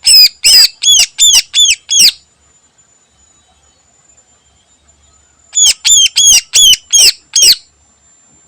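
Green leafbird (cucak ijo) singing two runs of about six loud, sharp, down-slurred whistled notes, about three a second, with a pause of some three seconds between the runs.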